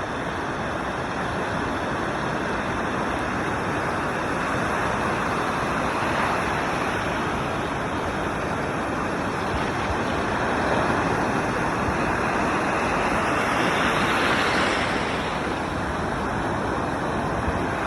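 Ocean surf: a steady rush of breaking waves that swells as each wave comes in, most strongly about fourteen seconds in.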